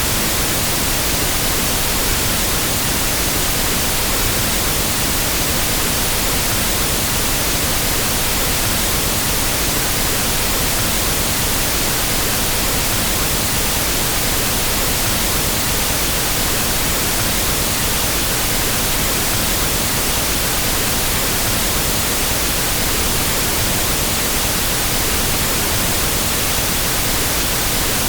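Pink noise test signal used for equalizing sound systems: a steady, unbroken hiss spread evenly across the whole range.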